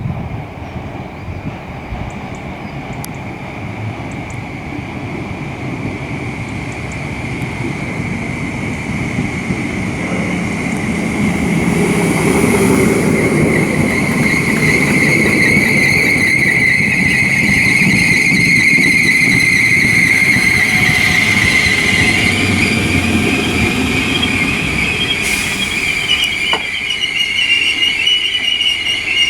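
Merseyrail PEP-family electric multiple unit running at the platform, its sound growing steadily louder over the first half. A steady high-pitched squeal from the wheels runs through the loudest part and rises a little in pitch near the end.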